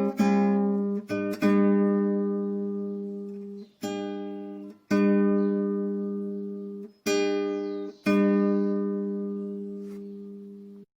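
Acoustic guitar playing single strummed chords, each left to ring out and fade before the next, a second or two apart. The last chord is cut off abruptly near the end.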